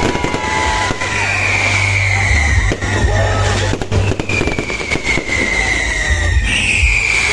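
Aerial fireworks going off: a rapid series of bangs and crackles, with a long high whistle that slides slowly downward, heard three times.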